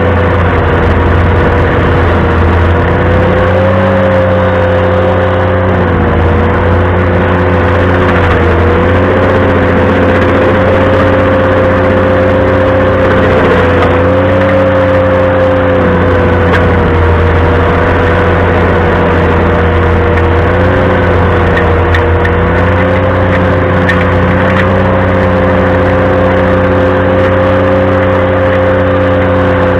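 Ventrac compact tractor running a stump grinder attachment, a steady machine drone with a continuous whine through it that wavers slightly in pitch.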